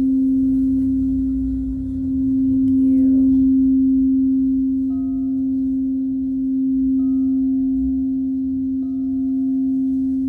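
Crystal singing bowl sounding one sustained, steady tone that swells and ebbs in slow waves. Three times, about two seconds apart, a fainter, higher ring joins in.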